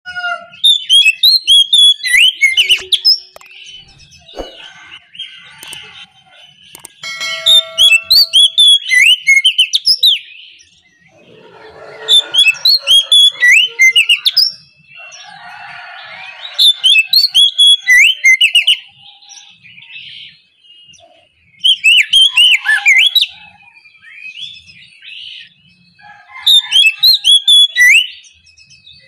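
Oriental magpie-robin (kacer) singing loud bouts of rapid, varied whistled phrases. There are six bouts of about two to three seconds each, a few seconds apart, with softer chattering calls between them.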